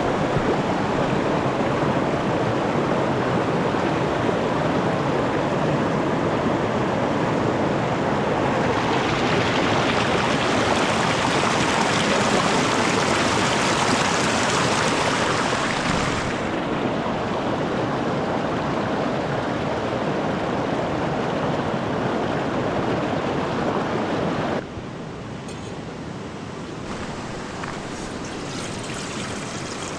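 River water rushing steadily over rocks. The rush changes abruptly a few times, brighter and fuller from about a third of the way in, then suddenly quieter near the end.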